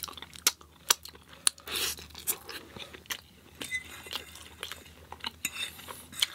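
A person chewing crunchy fried food close to the microphone: irregular sharp crunches, with a longer crunching spell about two seconds in.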